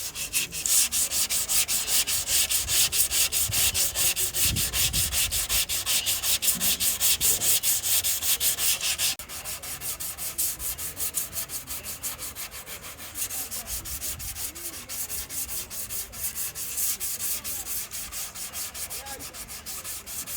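Hand sanding with rapid back-and-forth strokes, about five a second. The strokes are louder for the first nine seconds, drop off sharply, then grow a little stronger again.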